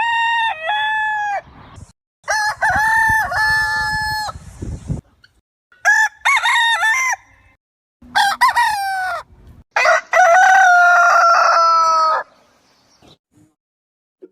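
Rooster crowing four times, each cock-a-doodle-doo a separate call, the last one longest with a drawn-out held ending.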